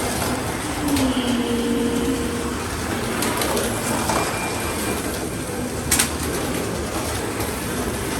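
1/32-scale Carrera Digital 132 slot cars running laps, their small electric motors and guides whirring steadily along the track, with a sharp click about six seconds in.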